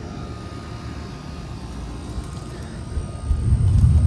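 Midea central air conditioner condenser with an LG scroll compressor running, a steady whooshing hum from its fan, with a low rumble that grows louder about three seconds in.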